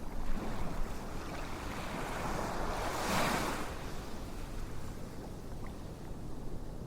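Ocean waves washing in, a steady rush with one wave swelling and falling away about three seconds in.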